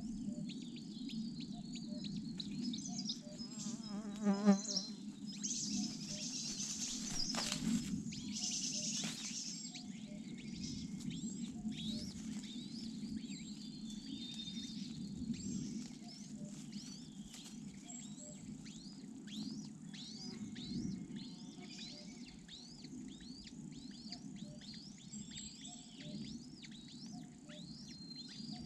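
Outdoor nature sound of insects with a bird giving a long series of short, high, falling chirps, about one or two a second. A louder warbling call comes about four seconds in, and a high hissing buzz follows for a few seconds.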